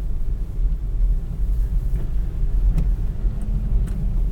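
Steady low rumble of a car driving slowly on a snow-covered road, heard from inside the cabin: engine and tyres on packed snow. A couple of faint clicks in the second half.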